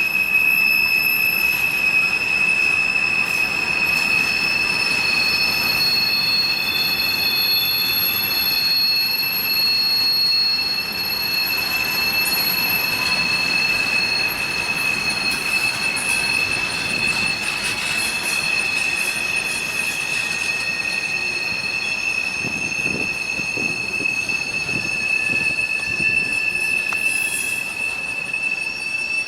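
Empty coal hopper cars rolling past on steel rails, their wheels squealing with several steady, high-pitched tones over the rumble of wheels on the track.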